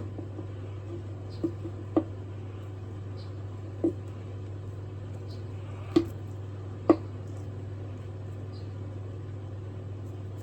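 Light knocks and taps of small objects being handled and set down on a workbench, about half a dozen spread out, the sharpest two a little past the middle, over a steady low hum.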